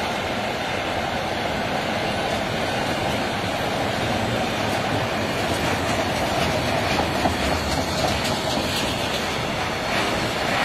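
Container freight train rolling past: a steady rumble and rattle of loaded flatcar wheels on the rails, with clicks of the wheels over the track coming through in the second half.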